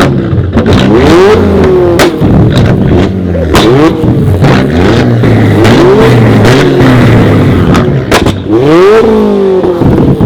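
Cars revving hard and accelerating away, the engine pitch climbing and dropping again and again, over a steady low engine rumble, with several sharp cracks.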